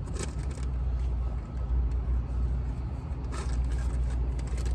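Steady low rumble of a car heard from inside the cabin, with a few faint rustles and clicks.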